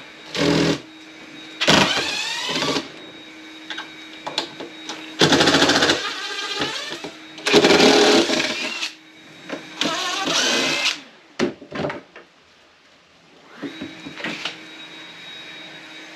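Power drill driving in about five bursts of one to two seconds, its pitch sliding up and down as it works on screws in old wooden dock boards, with a few short clicks and a last shorter burst near the end.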